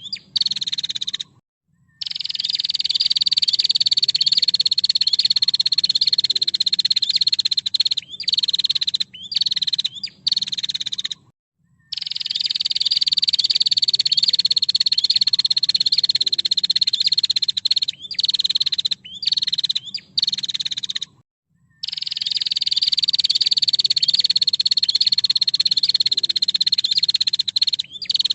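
Female prinia (prenjak) calling: long, rapid, dry, high trills of about six seconds each, slowly falling in pitch. Three come at roughly ten-second intervals, with bursts of short chattering calls and brief pauses between them.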